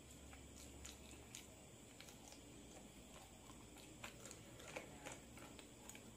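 Faint mouth sounds of chewing and nibbling chicken feet: small wet clicks and smacks scattered through, with a cluster about four to five seconds in.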